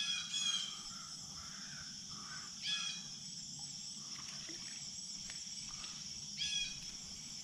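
A bird calling in short bursts: two calls at the start, another about a third of the way through and one more near the end. A steady high insect buzz runs underneath.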